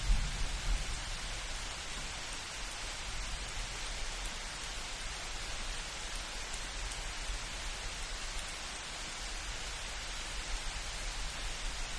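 Steady rain falling in a light thunderstorm, an even hiss of drops. A brief low rumble of distant thunder sits right at the start and dies away within about a second.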